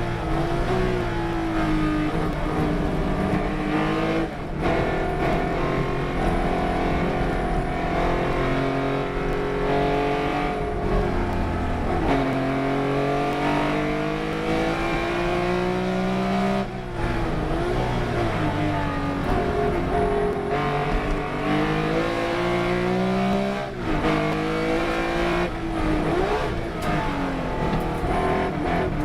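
Racing car engine at full throttle around a circuit. The revs climb steadily and then fall sharply several times, with brief breaks in the sound at the gear changes about every six seconds.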